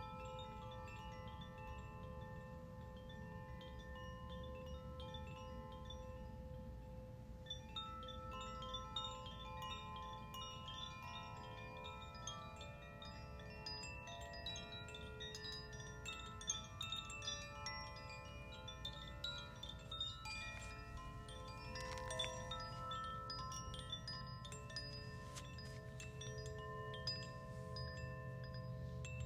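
Wind chimes ringing, many bell-like tones struck at irregular moments and overlapping as they sustain, growing busier about a third of the way in, over a steady low rumble.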